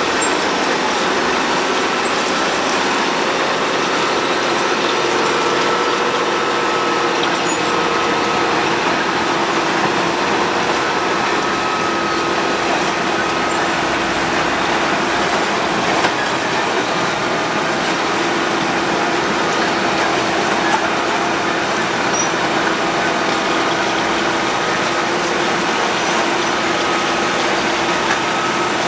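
Road planer (cold milling machine) running steadily: a loud, even mechanical noise with a few steady whining tones, broken by a couple of brief knocks.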